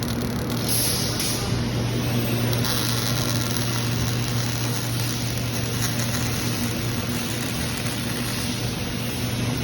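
Robotic arc welding on a frame line: a steady hiss over a constant low electrical hum, with a brief brighter burst of hiss about a second in.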